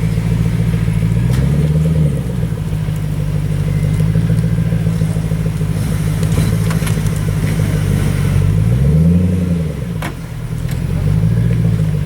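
A car engine running steadily, with its pitch rising and falling back a few times, as from brief throttle blips: about two seconds in, again about nine seconds in, and once more near the end.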